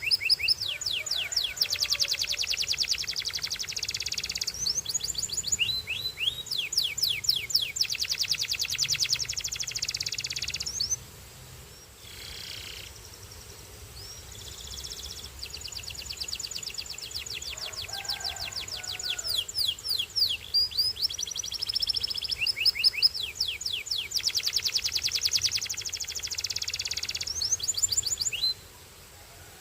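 Domestic canary singing: long phrases of rapid high trills and quick sweeping whistles, with a short break about eleven seconds in and the song stopping near the end.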